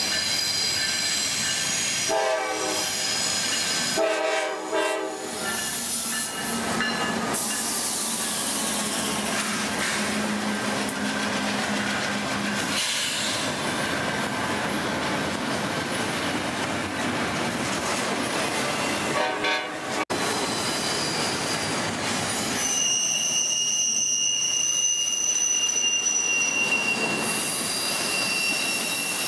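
Diesel freight locomotive's air horn sounding several blasts as a double-stack intermodal train approaches and passes, with a shorter horn blast later. The passing cars rumble steadily, and for the last several seconds the wheels squeal with a high, steady whine.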